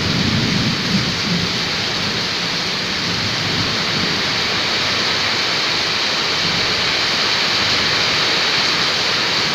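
Heavy rain pouring down in a windstorm, a steady, even hiss of downpour.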